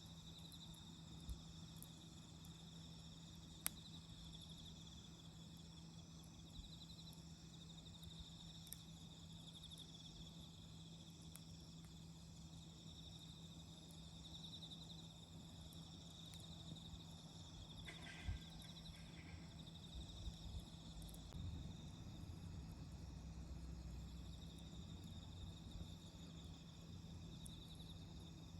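Faint insects trilling steadily in a pulsing high chorus, with a few sharp, isolated pops from a wood campfire.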